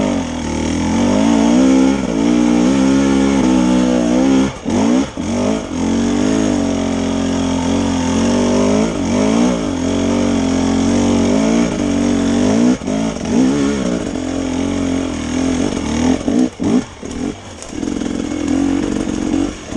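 Dirt bike engine revving up and down under load on a climb, its pitch rising and falling repeatedly. The throttle snaps shut briefly a few times, once about four seconds in and twice near the end.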